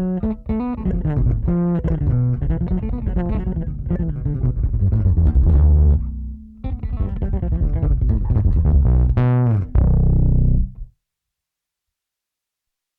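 Electric bass played through a distortion effect: a riff of heavy, gritty notes with a brief break about halfway, a slide up near the end, then the playing stops abruptly about two seconds before the end.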